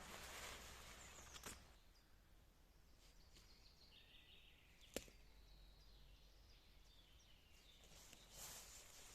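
Quiet outdoor ambience with faint, scattered bird chirps. A soft rustle dies away in the first second or two, and a single sharp click comes about five seconds in.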